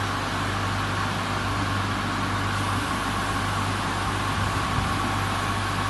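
W200D automatic car wash machine running steadily: a low hum under a constant hiss, with a faint high tone held throughout.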